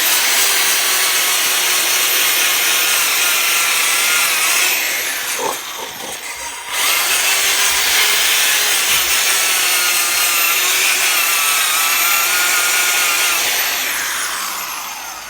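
Electric drill spinning a plastic brush against burned-on apple in a stainless steel pot: a steady motor whine that wavers with the load over a harsh scrubbing noise. It eases off briefly about five seconds in, picks up again and winds down near the end.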